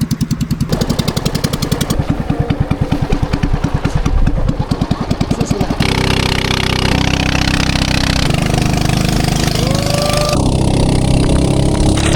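Small boat engine running with an even chugging beat, then, after about six seconds, a steadier, busier engine sound. A few short rising-then-falling tones come in near the end.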